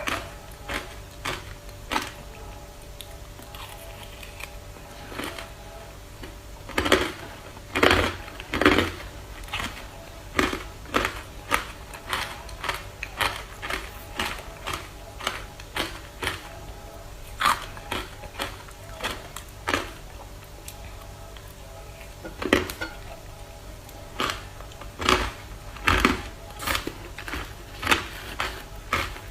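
Ice being bitten and chewed close to the microphone: sharp, irregular crunching cracks, a few each second. The louder crunches come about seven to nine seconds in and again near the end.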